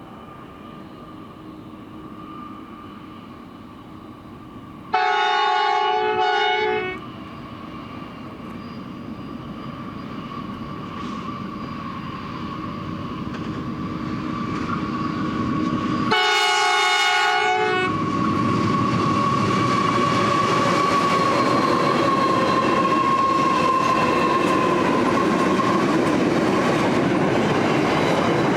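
Horn of an NR class diesel locomotive, a chord of several tones, sounding twice: a long blast followed at once by a short one about five seconds in, then another long blast about sixteen seconds in. Between and after the blasts the diesel engines and the rumble of freight wagons on the rails grow steadily louder and stay loud as the train passes.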